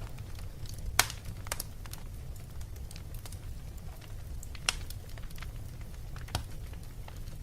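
Wood fire crackling in a fireplace: a steady low rumble with scattered small snaps and three louder pops, about a second in, past the middle, and near the end.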